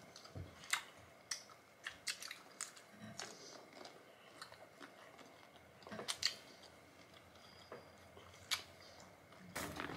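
Chewing and biting on jumbo tiger prawns: scattered short sharp clicks and crunches, the loudest cluster about six seconds in.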